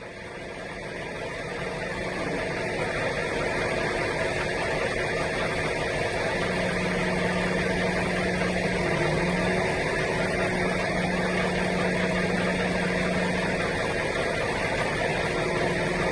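A motor vehicle's engine running steadily under a broad rushing noise, fading up over the first couple of seconds and then holding level.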